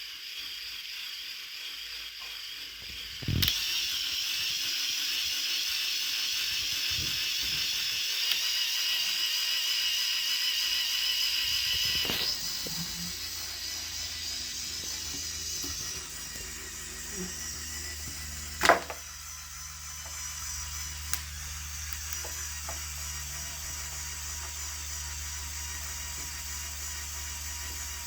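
Lego Technic Airbus H175's small electric motor whirring through its plastic gears, with a few sharp clicks. The whir starts suddenly a few seconds in and drops to a lower, steadier hum about twelve seconds in.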